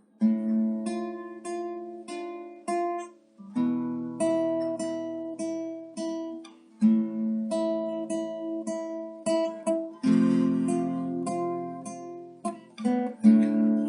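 Acoustic guitar strummed in a steady rhythm as a song's intro, the chord changing about every three seconds.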